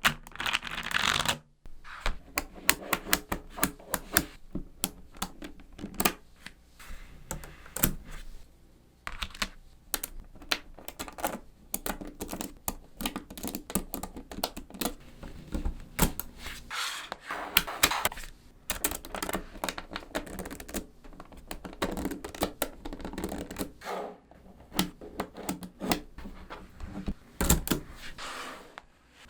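Small neodymium magnet balls clicking and clacking as they snap together and are pressed into place. The clicks are sharp and irregular, with a few short rattling bursts.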